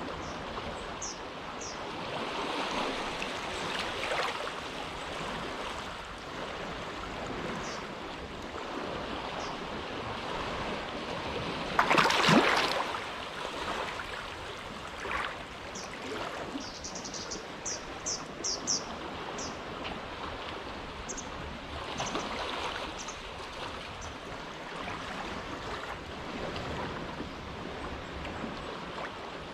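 Small waves lapping steadily at the shore of a sheltered inlet, with one louder wash of water about twelve seconds in. Short high chirps come and go, clustering a little past the middle.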